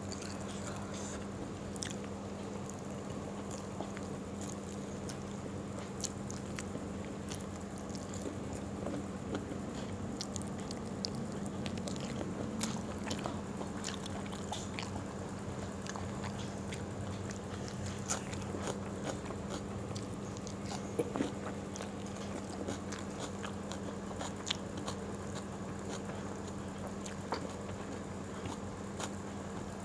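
Close-up mouth sounds of someone eating fried food and rice by hand: chewing and crunching, with many small sharp clicks and smacks, over a steady low hum.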